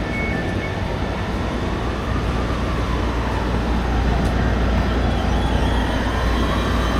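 Train at a railway station: a steady low rumble with a faint whine that slowly rises and falls, growing a little louder in the second half.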